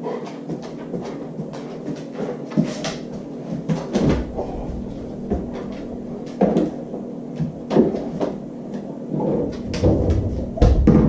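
A dog working a refrigerator door: repeated knocks and clicks with several heavier thumps as the door is pulled open and handled, over a steady low hum.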